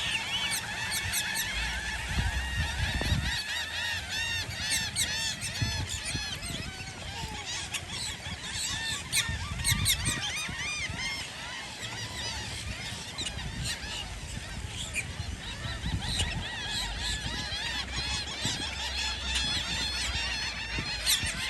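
A flock of waterfowl, mainly geese, honking and calling over one another without a break. A low rumble, like wind on the microphone, swells a couple of times beneath the calls.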